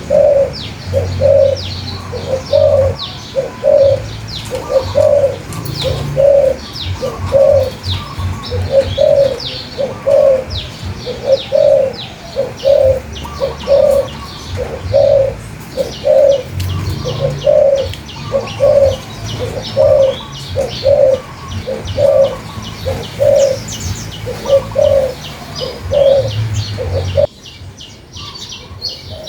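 A dove cooing over and over, one low coo about every second, while small birds chirp rapidly at a much higher pitch. Near the end the cooing breaks off abruptly and only the chirping remains.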